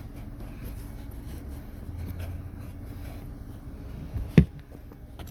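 Cabin air filter being pushed into its plastic housing: light rubbing and scraping of the filter against the plastic, with one sharp knock about four seconds in.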